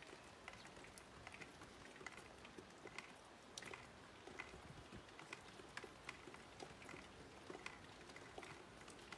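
Light rain, faint: scattered drops ticking irregularly, a few a second, over a soft steady hiss.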